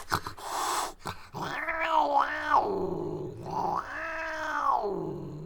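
Domestic cat hissing briefly, then yowling: a two-part call and then one longer, drawn-out yowl, the sounds of an angry, defensive cat.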